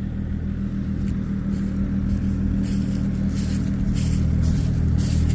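Vehicle engine running steadily with a low drone, getting a little louder over the last couple of seconds, as it works to pull a stuck skid steer.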